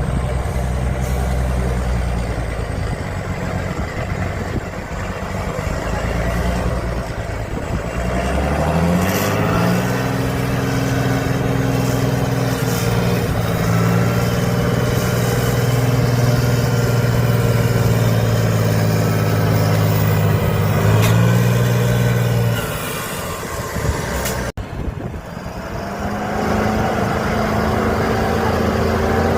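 Heavy trial truck's engine working off-road: it runs low at first, revs up about a third of the way in and holds high revs, then drops off. Near the end the sound breaks off abruptly and another engine runs steadily.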